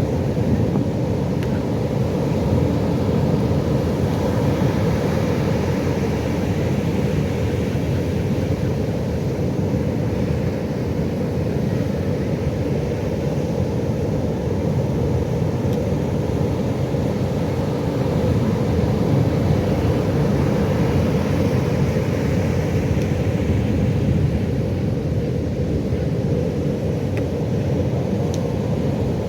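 Pacific Ocean surf: a steady low rumble of waves, with a fainter hiss above it.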